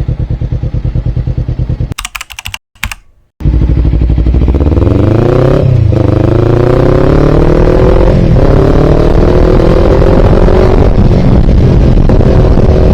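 Motorcycle engine running with an even chug, then a short break with a few clicks about two seconds in. The motorcycle then accelerates hard, its pitch rising through the gears, with shifts about six and eight seconds in.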